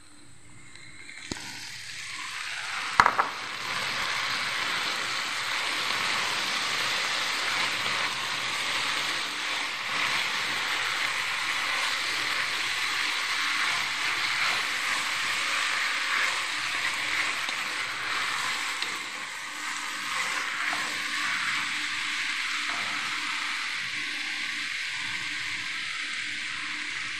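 Diced vegetables (eggplant, onion and red pepper) sizzling in hot oil in an enamelled pot and being stirred with a wooden spoon. The sizzle builds over the first few seconds, then holds steady. A sharp knock comes about a second in, and a louder one about three seconds in.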